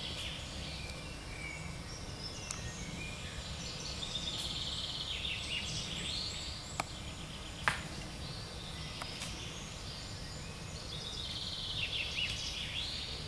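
Woodland birds singing and chirping in trills, over a steady low rumble. Two sharp clicks about a second apart near the middle.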